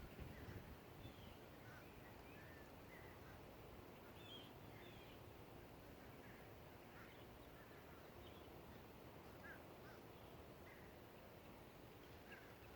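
Faint, scattered short bird chirps over a quiet, steady outdoor background, with a brief low rumble in the first second.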